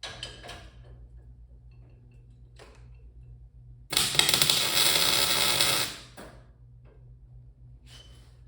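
A welding arc crackling steadily for about two seconds, starting about four seconds in: a tack weld joining metal parts.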